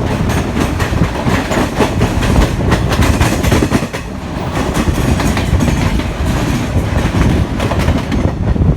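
Passenger train running, its wheels clicking irregularly over rail joints under a loud, steady rush of running noise, which dips briefly about four seconds in.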